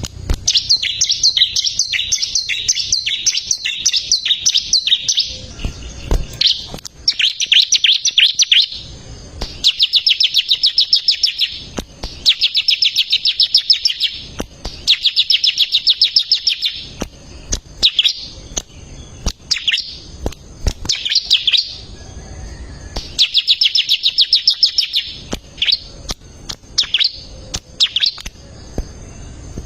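Bar-winged prinia (ciblek) singing vigorously: long, rapid, high trills of a couple of seconds each, repeated with short pauses and broken up by shorter sharp call notes.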